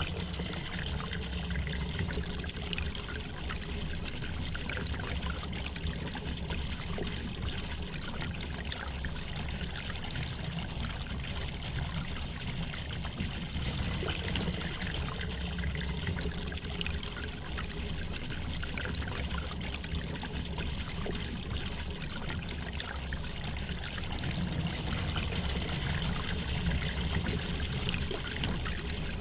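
A river running gently: a steady, even sound of flowing water.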